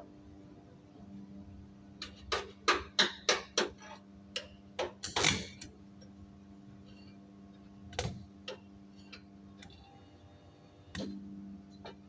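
Sharp metallic clicks and taps as steel plates are handled and tack-welded: a quick run of about six taps two to three seconds in, a short crackle a little after five seconds, then scattered clicks. A steady low electrical hum runs underneath and briefly drops out near the ten-second mark.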